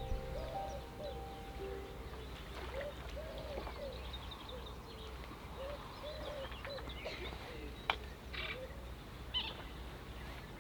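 Wetland birds calling: a run of short, low, hooting notes, repeated many times, mixed with scattered higher chirps of small birds. A single sharp click about eight seconds in.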